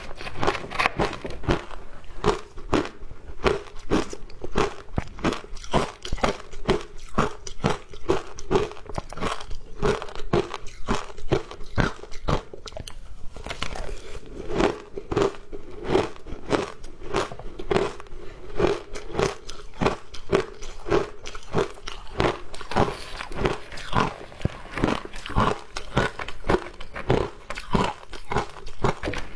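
Someone biting and chewing frozen ice close to the microphone: a steady run of sharp, loud crunches, about three a second.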